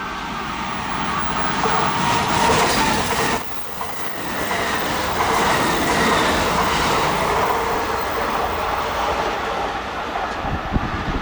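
Kintetsu electric train running past on the track, a steady rumble of wheels on rail with faint whining tones, briefly dropping in level about three and a half seconds in.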